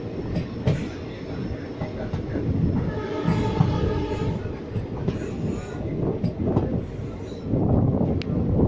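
Steady low rumble and rattle of a moving vehicle, with a brief pitched tone about three seconds in.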